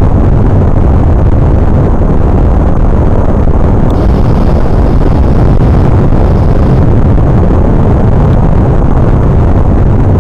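Airplane noise: a loud, steady low rumble that does not change.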